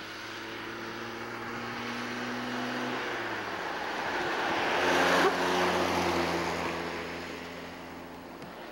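Vintage open-wheeled racing car's engine running as the car approaches, passes close by and pulls away. Its note drops lower about halfway through, is loudest just after, then fades as the car recedes.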